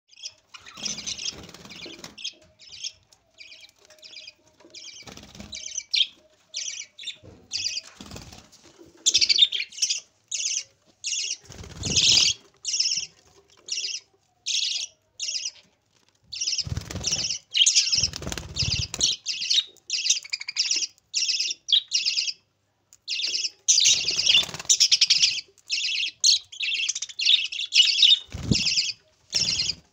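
Parrots calling with short, harsh screeches, several a second in uneven runs, with a few low thuds among them.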